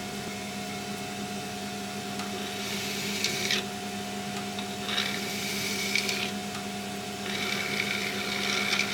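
A machine motor hums steadily while a tool or file rasps against the turning metal workpiece in three bursts of about a second each, near the start, the middle and the end.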